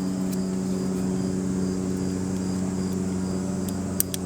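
Insects chirping in a regular high pulse over a steady low hum, with a couple of sharp clicks near the end.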